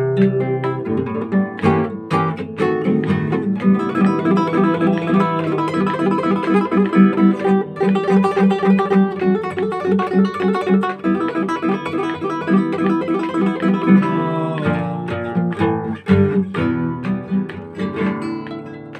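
Solo guitar playing an instrumental piece: quick, evenly repeated picked notes over a steady low line, thinning to sparser single notes about fifteen seconds in.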